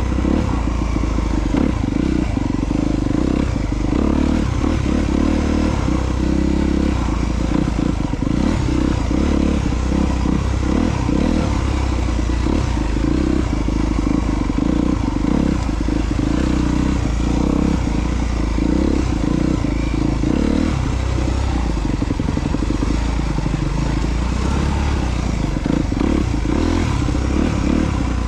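2022 Honda CRF250R's single-cylinder four-stroke engine running as the bike is ridden along a trail, its note holding fairly steady, picked up by a helmet-mounted Bluetooth headset microphone.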